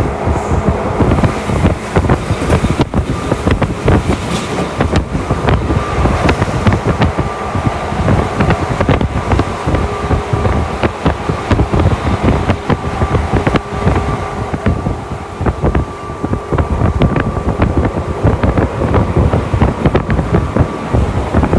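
Tokyu Toyoko Line electric commuter train running between stations, heard from inside the car: a steady rumble of wheels on rail with a rapid stream of clicks and rattles, and faint steady tones running through it.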